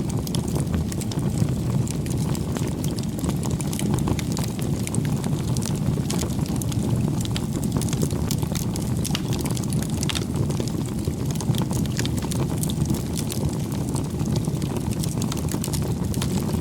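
Wood bonfire burning: a steady low rush of flames with frequent sharp crackles and pops from the burning wood.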